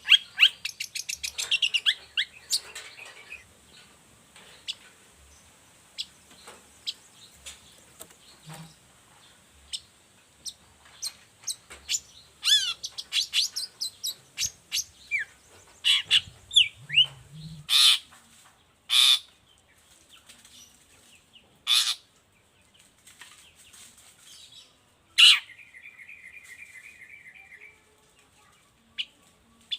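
Long-tailed shrike (cendet) singing a varied song. It opens with a fast twittering run, then gives scattered quick down-slurred notes, several loud harsh calls in the second half, and a buzzy trill near the end.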